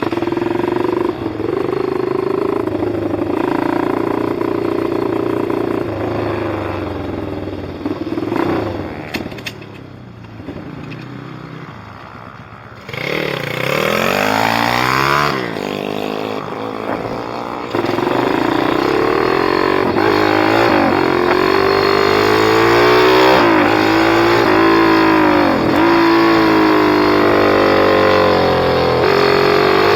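Pit bike engine running at a steady pitch, then growing quieter for a few seconds. About halfway through it gets suddenly louder and revs hard, its pitch climbing and dropping again and again as it accelerates and backs off.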